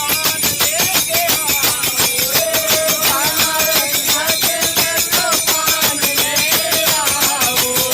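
A group of people singing together over a fast, steady beat of hand percussion, about four strikes a second.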